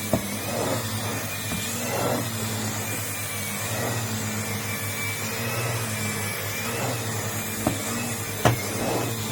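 Numatic Henry canister vacuum cleaner running steadily with a slightly wavering high whine, while the floor nozzle is pushed back and forth in repeated swishes. A few sharp knocks come just after the start and twice near the end.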